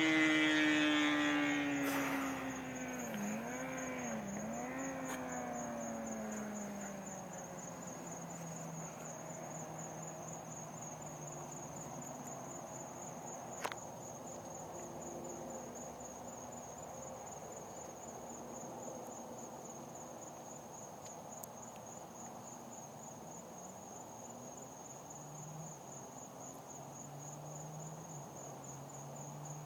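Kawasaki ZX-6R 636 sportbike with a Jardine aftermarket exhaust pulling away after a pass, its engine note falling in pitch, dipping twice a few seconds in, then fading into the distance to a faint hum. A steady high insect trill runs throughout.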